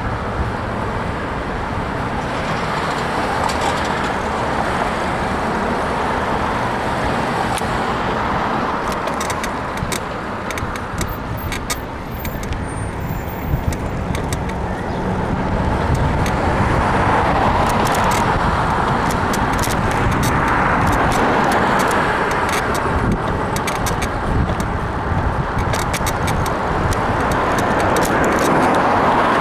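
Wind rushing over the microphone and road and traffic noise during a bicycle ride, getting louder about halfway through. From about a third of the way in come many small sharp clicks and creaks from the bike's frame, which the rider blames on a worn suspension bushing.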